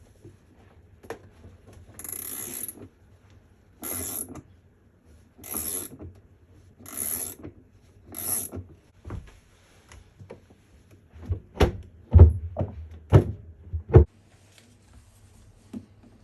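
A ratchet wrench clicks through about five short strokes roughly a second and a half apart. Then, near the end, comes a quick series of five or six sharp metallic knocks, the loudest sounds here.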